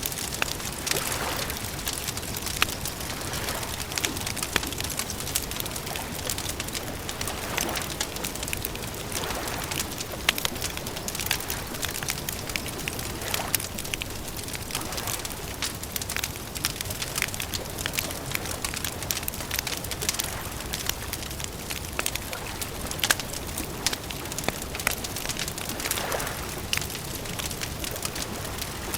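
Wood fire crackling, with frequent sharp pops and snaps over a steady soft hiss; a few softer swells of noise come and go.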